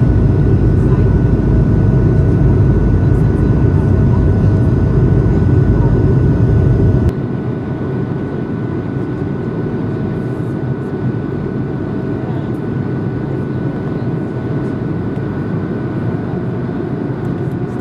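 Steady cabin noise of an Airbus A220-300 in flight after takeoff: its PW1500G geared turbofan engines and airflow making a dense, deep rush with a faint steady whine. About seven seconds in, the deep rumble drops away abruptly and the noise settles quieter.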